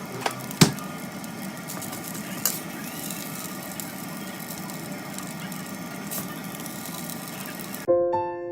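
A steady hum and hiss of kitchen noise with a sharp click a little over half a second in and a few fainter clicks later. Soft electric-piano music starts near the end.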